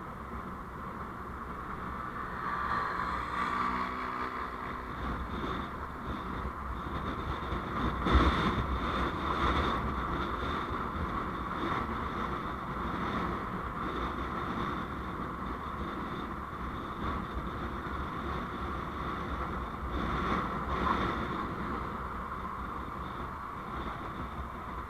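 Steady road and engine noise of a vehicle driving on a road, with engine tones swelling briefly a few seconds in and a sharp knock about eight seconds in.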